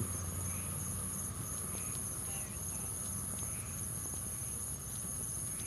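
Steady high-pitched chorus of insects, with faint scattered ticks beneath.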